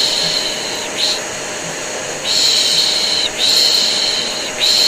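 Rhythmic 'shh' shushing, mostly long hushes of about a second with short breaks between them, over the steady drone of an electric vacuum cleaner. It is played as white noise to soothe a colicky baby to sleep.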